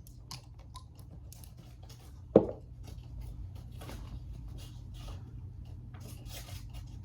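Small handling sounds of skincare being applied: faint clicks, taps and rubbing from a serum bottle and hands on skin, with one sharp knock about two and a half seconds in.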